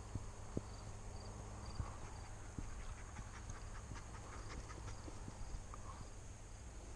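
Faint, irregular footfalls and rustling through dry field cover, over a steady low rumble of wind on the microphone.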